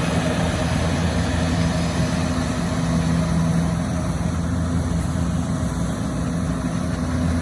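Rice combine harvester running steadily, its engine giving a constant low hum with an even mechanical clatter above it.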